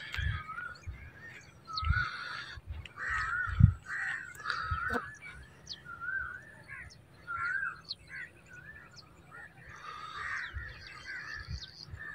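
Outdoor birds chirping and warbling in many short, wavering calls, with a few low thumps.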